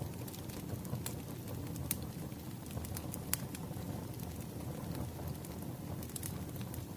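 Wood fire burning: a steady low rumble with irregular sharp crackles and pops from the logs.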